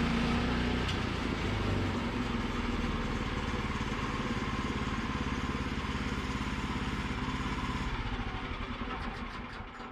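An engine running steadily with a fast even pulse; its pitch drops about a second in, and the sound fades out near the end.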